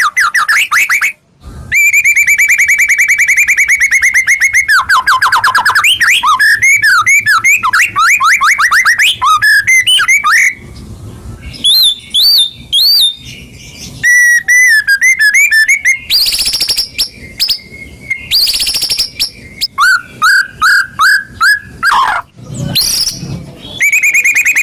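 White-rumped shama (murai batu) in full, loud song: a long run of varied phrases. It moves from rapid repeated notes to sweeping whistles, fast trills and a few harsh, scratchy bursts, with brief pauses between phrases.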